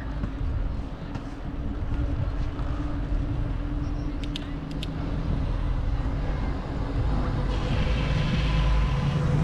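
Street traffic: a steady low rumble, with a motor vehicle getting louder in the last two seconds. A few brief high ticks sound about halfway through.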